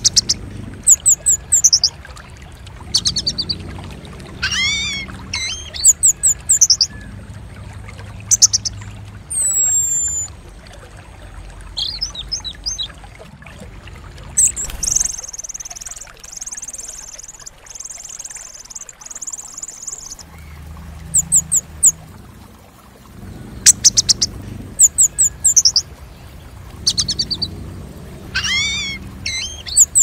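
Songbird song and calls: short bursts of quick, high chirps and trills every second or two, twice a call sweeping upward in pitch, and a steady high buzz lasting about five seconds midway.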